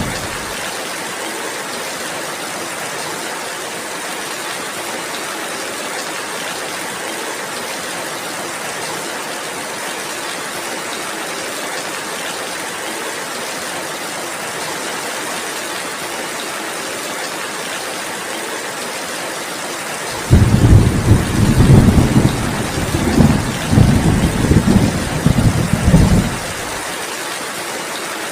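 Steady rain falling, an even hiss. About two-thirds of the way in, a loud, rolling rumble of thunder rises over it for around six seconds, then fades back to the rain.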